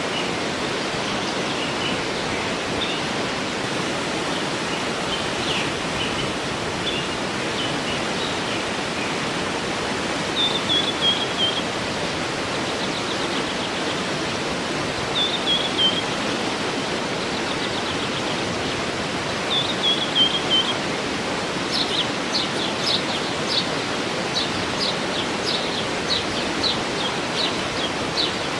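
Waterfall rushing steadily, with small birds calling over it: three short falling trills around the middle, then a run of quick repeated chirps near the end.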